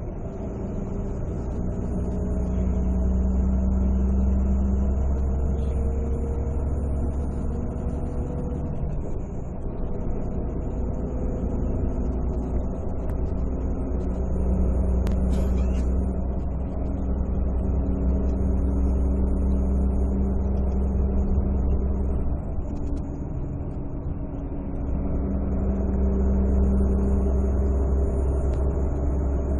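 Volvo D13C 13-litre inline-six diesel engine of a Volvo 9700 coach running, its steady low note swelling and easing off several times, with small shifts in pitch.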